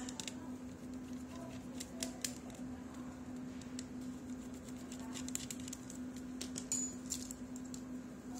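Scattered small clicks and taps of tools working on a mobile phone's plastic and metal parts during disassembly, over a steady low hum.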